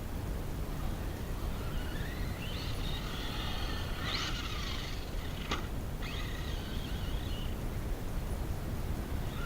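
Leopard 4082 2000kv brushless motor of an RC monster truck whining, its pitch sweeping up and down several times as the throttle is worked, over a steady low rumble. A single sharp knock about five and a half seconds in.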